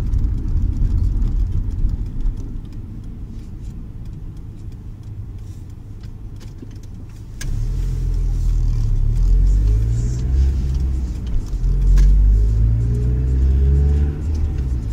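Volvo V40's engine and road rumble heard from inside the cabin. The rumble drops quieter about two seconds in; about seven and a half seconds in it jumps louder and the engine note rises in pitch three times in turn, as the car accelerates and shifts up through the gears.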